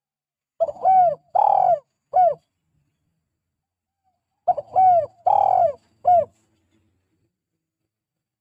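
Spotted dove (tekukur) cooing: two phrases about four seconds apart, each of four arched coos, short, long, long, short.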